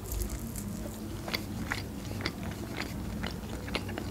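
Close-up chewing of crunchy toasted bread topped with shredded meat: a bite at the start, then crisp crunches about every half second.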